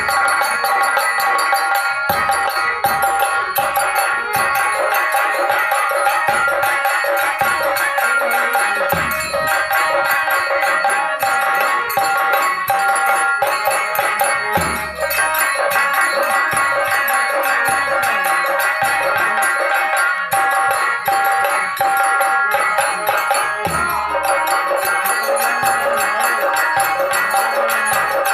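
Indian folk dance music led by nagada drums, with fast jingling, rattling percussion and a sustained melody instrument holding steady notes; a few heavy low drum strokes stand out.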